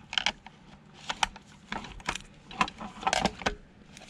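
Irregular metallic clicks and clinks of hand tools and loose metal parts as an old sewing machine is dismantled.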